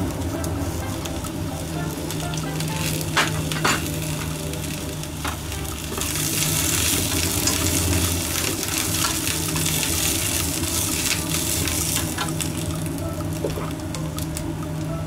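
Shishito peppers sizzling in a frying pan with freshly added sesame oil, stirred with chopsticks. The sizzle gets louder and brighter about six seconds in as the peppers are tossed, then settles. Two sharp clicks come a little over three seconds in.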